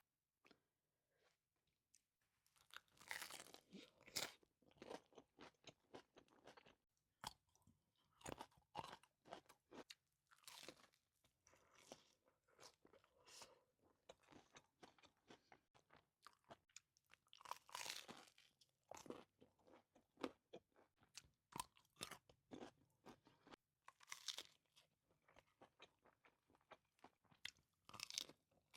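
Close-up mouth sounds of eating a toasted tuna melt sandwich: crisp crunches of the toasted bread and chewing, with louder crunchy bites every few seconds.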